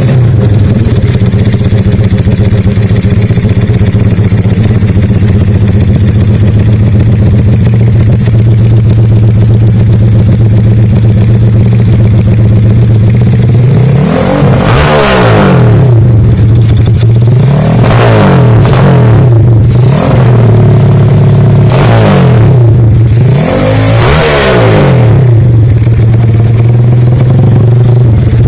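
Honda Wave motorcycle's single-cylinder four-stroke engine, built up with a 54 mm bore kit, idling steadily and loudly just after a kick-start. From about halfway it is revved in several quick throttle blips, each rising and falling back to idle.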